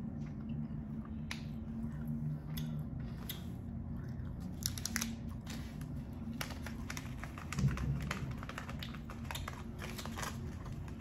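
Close-miked chewing of a tough, sticky gummy candy, with many soft, scattered mouth clicks and smacks over a steady low hum.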